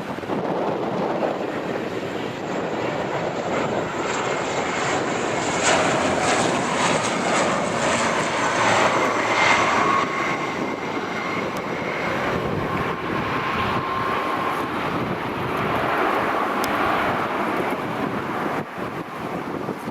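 Airliner engines passing by: a broad engine rush that builds to its loudest about six to ten seconds in, with a whining tone through the middle, then eases off.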